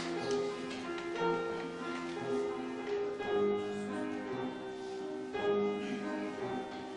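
Instrumental music with no singing: held chords and a melody line that change every half second or so, as in an accompanist's introduction or interlude.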